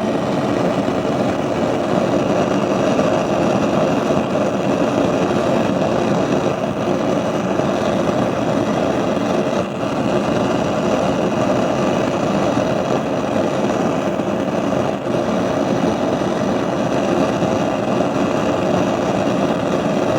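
Gas stove burner flames running with a steady, unusually loud rushing noise, far louder than a normal burner.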